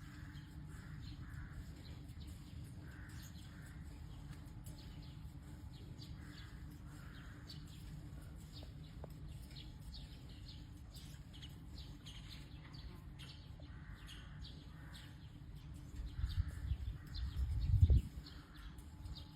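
Blue-fronted amazon parrot making faint, soft chattering calls at intervals over a steady low rumble. A burst of louder low bumps comes near the end.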